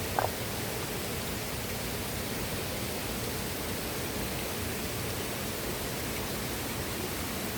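Steady rushing of flowing water, an even hiss. One brief, higher-pitched blip stands out just after the start.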